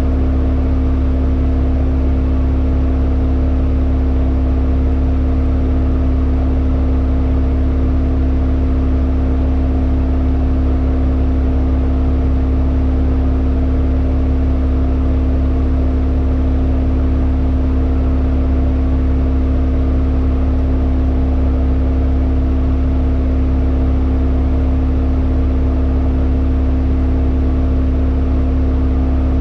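Hyundai Elantra N's turbocharged 2.0-litre four-cylinder running at a constant, unchanging pitch, a steady low drone with no revving or gear changes.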